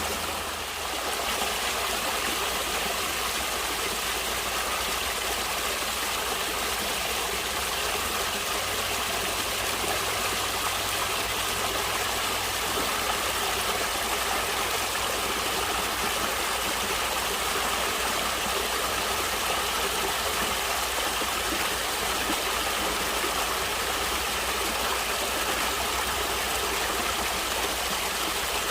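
Natural flowing water rushing steadily, a continuous even splash and hiss with no breaks.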